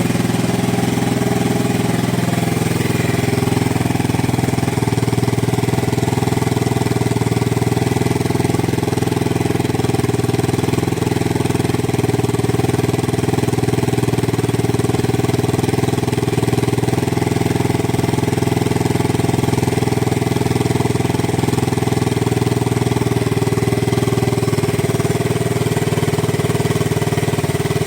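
Yamaha TW200's single-cylinder four-stroke engine idling steadily through an aftermarket Gatling muffler.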